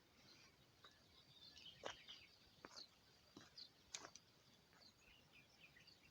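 Faint birdsong outdoors: scattered short, high chirps from small birds, with a few soft clicks in between.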